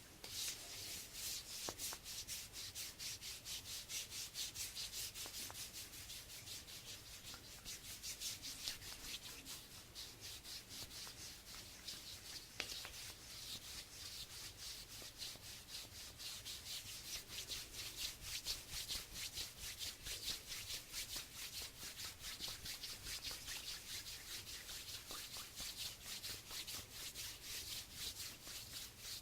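Hands rubbing together in fast, continuous back-and-forth strokes, a dry, even swishing.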